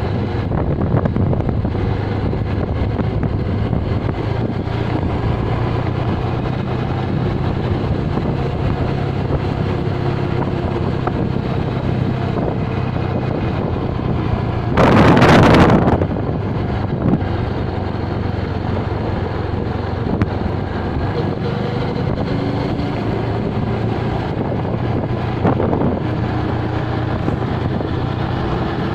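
Motorcycle engine running steadily while riding, with wind buffeting the microphone. About halfway through, a loud rush of noise lasts about a second.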